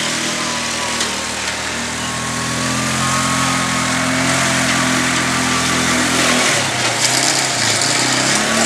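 The small gas engine of a 1960s pull-behind lawn mower running steadily as it is towed through tall grass. About six and a half seconds in, its pitch drops and wavers.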